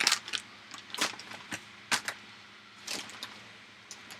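Irregular sharp clicks and taps of kitchen handling at the stove, roughly one or two a second: utensils and a spice container knocking against a pan of chicken and peppers being seasoned.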